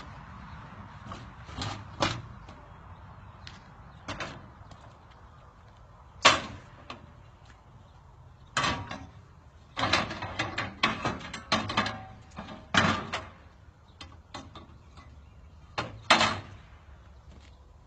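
A series of irregular knocks and clunks, some single and some in quick clusters, from handling and securing motorcycles in a pickup truck bed.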